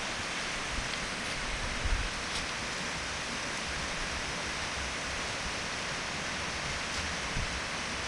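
Steady rush of water from a waterfall, an even hiss that does not change. A few low bumps on the microphone come about two seconds in and again near the end.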